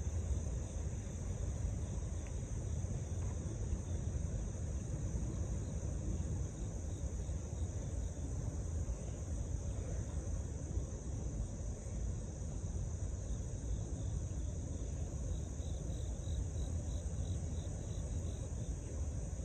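Freight train rolling past at a distance: a steady low rumble, with insects chirring steadily over it.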